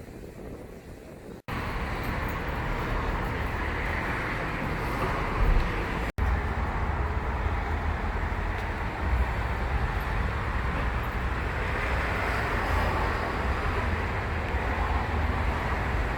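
Steady road-traffic noise with a deep rumble, quieter for the first second and a half and dropping out for an instant about six seconds in.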